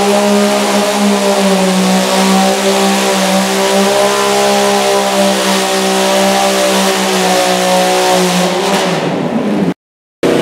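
Modified pulling lawn tractor's three-cylinder Yamaha motorcycle engine held at high revs under load, wavering a little, then its revs fall near the end before the sound cuts off suddenly.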